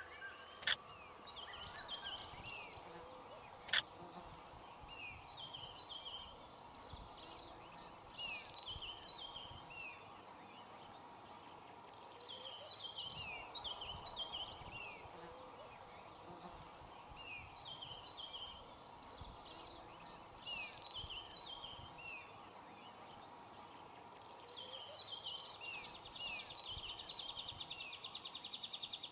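A bird singing: repeated phrases of short, quick falling notes, a phrase every few seconds. Near the end a rapid, even buzzing trill starts, with a couple of sharp clicks early on.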